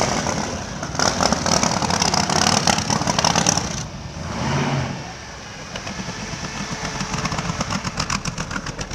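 Motorcycle engines running, with a short rev about halfway through. From about six seconds in, a Boss Hoss motorcycle's Chevrolet V8 runs close by with a rapid, even pulsing rumble.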